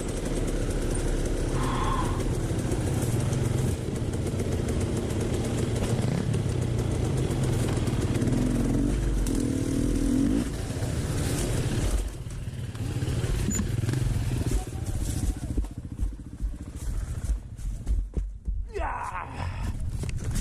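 Dirt bike engine running on a rough trail, the pitch shifting with the throttle. About twelve seconds in it turns choppy, the throttle opening and closing in short blips.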